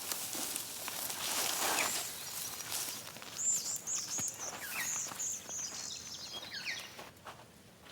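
Rustling and footfalls in dry vegetation, then a bird sings a run of high chirps that step down in pitch over about three seconds.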